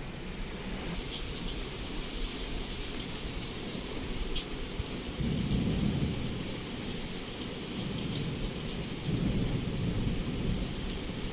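Heavy rain falling steadily, with scattered sharp drop hits. Low rolling thunder swells up twice, about five seconds in and again about nine seconds in.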